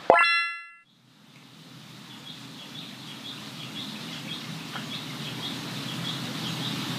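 A brief bright ringing tone right at the start, then, after a moment of quiet, garden ambience fades in: birds chirping repeatedly over a steady low outdoor hum.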